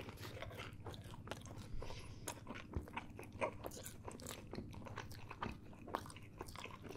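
A person chewing a mouthful of pepperoni pizza close to the microphone: a run of many short crunching and wet mouth clicks, several a second.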